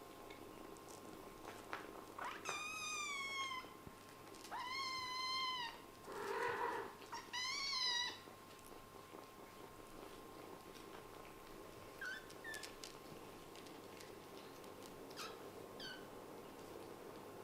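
A kitten meowing three times, high-pitched calls each under about a second and a half, followed later by a few short, faint chirps.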